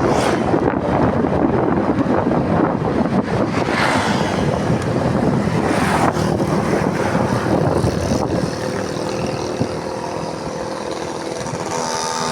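Wind rushing over the microphone of a moving motorcycle, with the engine running beneath it. The rush eases after about eight seconds and a steadier engine hum comes through.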